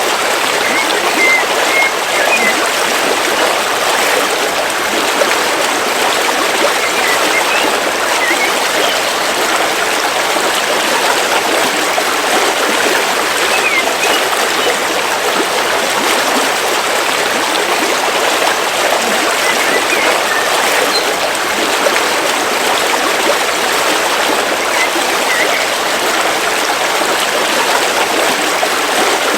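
River water flowing steadily through a forest, a constant, even rush. A few faint short bird chirps come through now and then.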